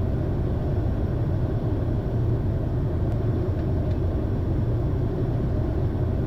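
Steady low rumble of airflow and jet engine noise inside a Challenger 300 business jet's cockpit on approach.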